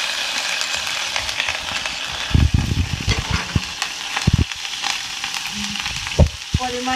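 Onion, garlic and ginger pastes sizzling in hot soybean oil, a steady hiss with small crackles. A few dull low knocks come about two and a half seconds in and again near the end.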